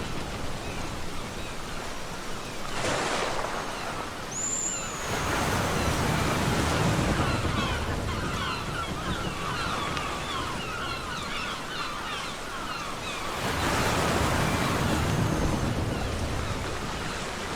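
Ocean surf breaking and washing up a beach in repeated swells, loudest about three seconds in, around six seconds and again near fourteen seconds. A single short, high call falls in pitch about five seconds in, and a bird is the likely source.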